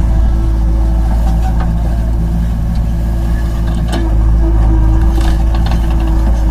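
An engine running steadily at a constant speed, with a few sharp clicks about four seconds in.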